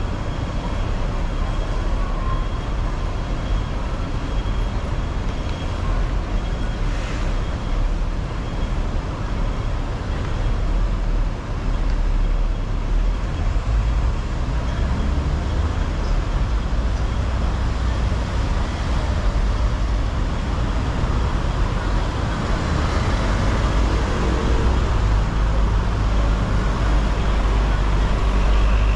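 Hong Kong double-decker tram running along its track: a steady low rumble that grows a little louder in the second half, with road traffic around it.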